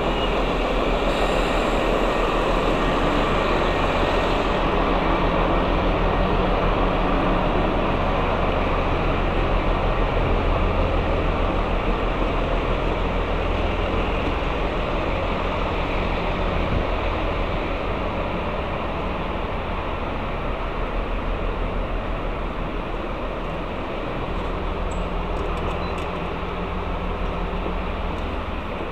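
A train running at the platform: a steady, loud rumble with a fast low throb that eases slightly in the second half.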